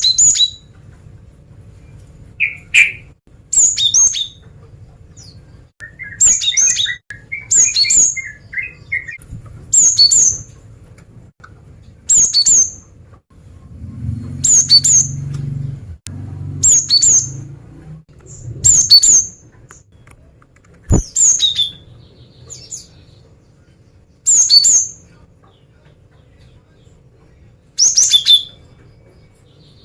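Female cinereous tit (gelatik batu) calling: short, sharp high notes in bursts every second or two, with a lower twittering phrase a few seconds in. This is the female's call used to lure in males.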